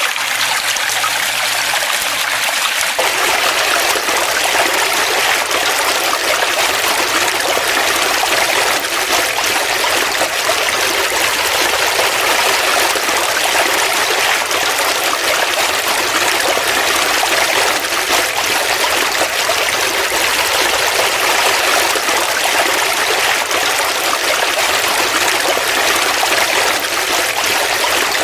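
A forest stream flowing steadily: a continuous rush and trickle of running water, with a little more low rush from about three seconds in.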